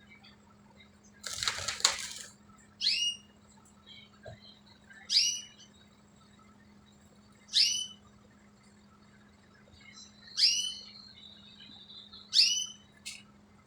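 A bird in a house giving a sharp, high chirp five times, about every two to two and a half seconds, with a brief rustling burst about a second in.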